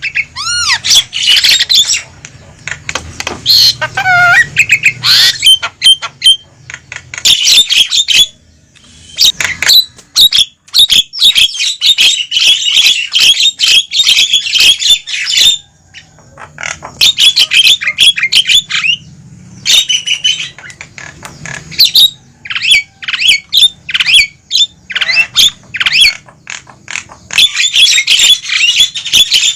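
Javan myna (jalak kebo) calling noisily: fast runs of harsh squawks, rattling clicks and shrill whistles, broken by a few short pauses.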